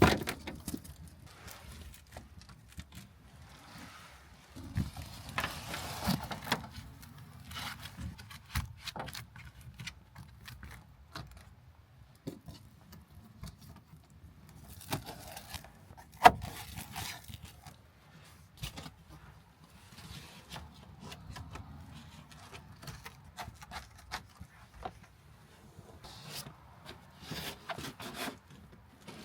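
Irregular scraping, rustling and small knocks of things being handled and moved, with one sharper knock about sixteen seconds in.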